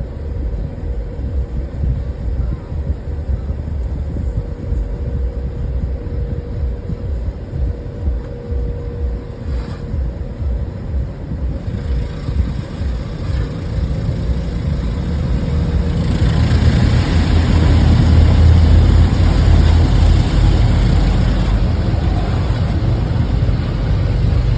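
Automatic tunnel car wash heard from inside the car: a steady low rumble at first, swelling about halfway through into a loud rushing of the wash equipment, water jets and spinning brushes, working over the car's body.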